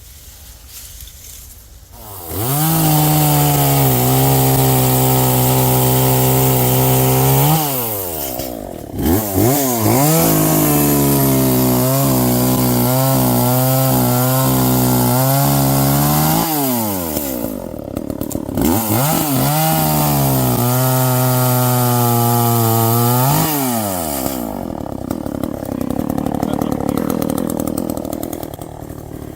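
Two-stroke gas chainsaw revved to full throttle three times, dropping back toward idle between bursts; during the middle burst the pitch wavers as the saw bogs in the cut. Near the end it settles to a lower, quieter idle.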